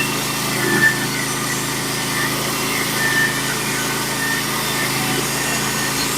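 Norwood HD36v2 portable band sawmill's engine running steadily as the band blade saws along a pitch pine log.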